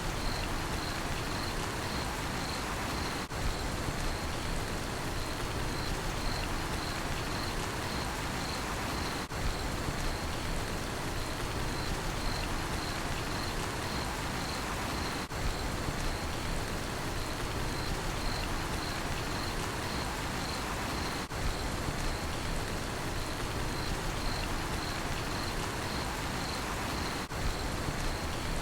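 Steady rain falling, with a cricket chirping in an even rhythm of about two high chirps a second. There is a brief dip in the sound about every six seconds.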